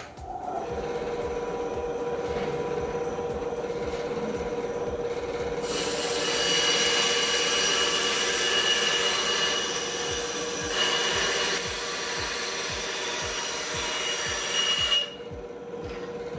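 Ryobi BS904G 9-inch band saw running with a steady hum; about six seconds in the blade starts cutting through a piece of wood, a louder sawing noise that eases briefly near the middle and stops about fifteen seconds in, leaving the motor running.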